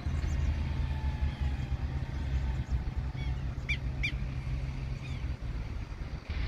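Steady low rumble with a bird chirping a few times about halfway through, two clear short high chirps close together.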